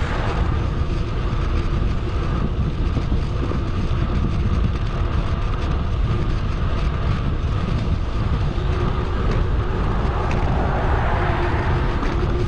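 Steady wind rushing over an action camera's microphone on a moving bicycle, a constant low rumble, with a brief swell about ten seconds in.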